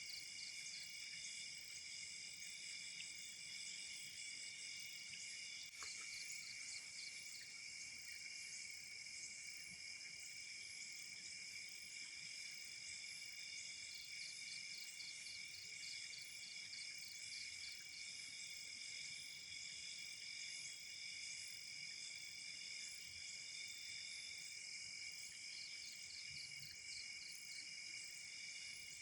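A steady chorus of night insects: several layered, unbroken trills at different pitches, one of them pulsing about three times a second. A single faint click comes about six seconds in.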